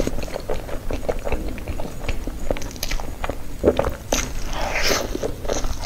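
Close-miked eating of soft cream-filled crepe cake: chewing and lip smacking as a run of irregular wet clicks, with a few louder squelchy bursts.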